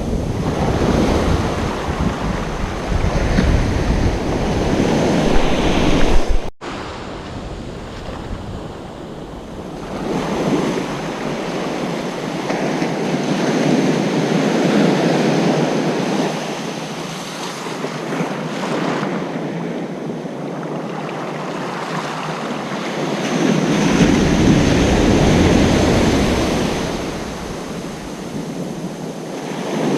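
Ocean surf breaking and washing up a beach, swelling and ebbing every few seconds, with wind rumbling on the microphone at the start and again near the end. The sound drops out for an instant about six and a half seconds in.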